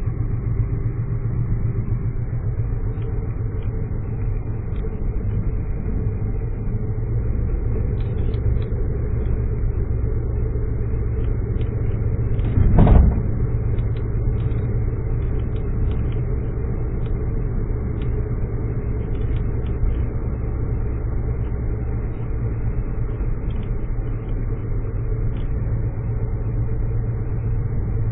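Steady low rumble of a car's engine and tyres, heard from inside the cabin while driving. A single brief thump about halfway through.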